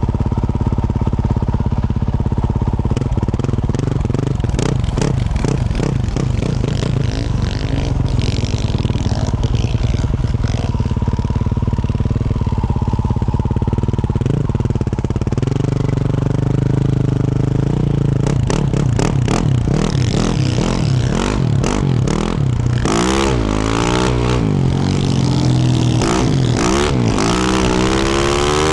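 2024 Yamaha YZ450F's single-cylinder four-stroke engine through a Yoshimura RS-12 exhaust, running under way at a fairly steady pitch for the first half, then revving up and down quickly from about two-thirds in. Scattered clicks and clatter run over the engine sound.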